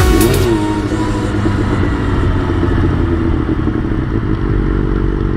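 Motorcycle engine running at a steady speed. Its pitch dips and recovers in the first half second, then holds even.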